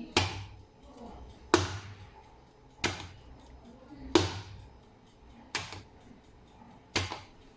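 A cake tin filled with batter tapped down hard on a surface six times, about once every second and a half. It is done to settle the batter and knock out air bubbles before baking.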